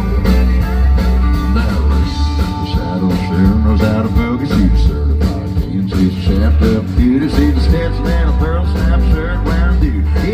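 Live country band playing, with guitar over a steady bass and drum beat.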